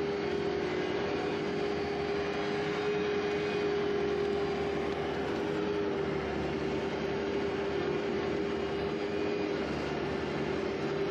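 Skid steer running steadily, a constant mid-pitched hum over even engine noise.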